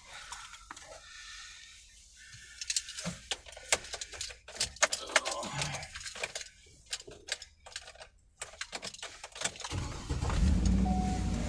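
Clicks and jangling rattles, like keys and a seatbelt buckle being handled inside a car, then the car's engine starts about ten seconds in and settles into a steady low idle.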